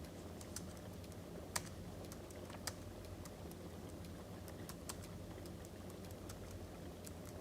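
Crackling wood fire: irregular sharp pops and snaps over a steady low rumble, one pop standing out about one and a half seconds in.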